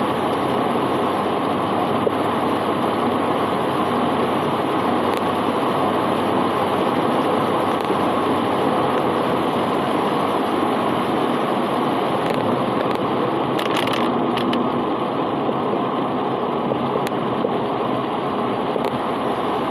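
Heavy rain falling as a steady, even hiss, with a few faint clicks.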